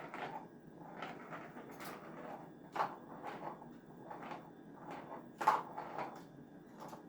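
Irregular knocks, taps and rattles of a Devon rex kitten at play, knocking something about, with the two sharpest knocks about three seconds in and about five and a half seconds in.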